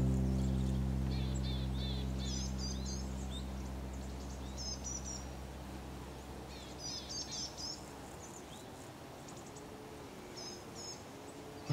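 Small birds chirping in short repeated phrases of quick high notes, several times, while a held chord of background music slowly fades out over the first several seconds.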